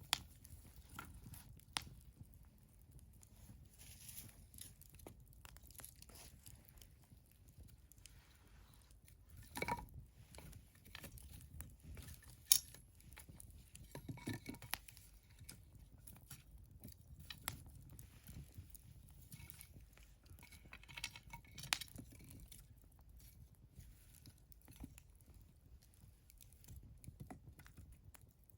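Wood fire crackling, with scattered irregular snaps and pops, a few sharper than the rest, over a faint low rumble.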